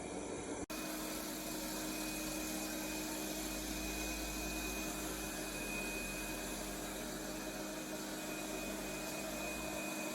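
Robot vacuum cleaner running: a steady motor and fan whir with a faint high, even whine, broken by a brief dropout about a second in.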